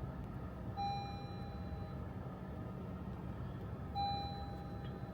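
Two long electronic beeps, each about a second and three seconds apart, over a low steady rumble.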